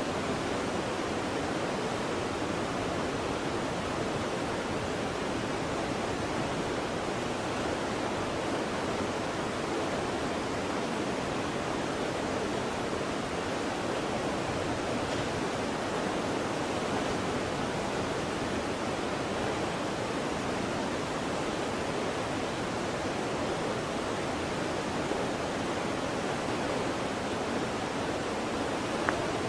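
Waterfall: a steady, unbroken rush of falling water, with a single faint click just before the end.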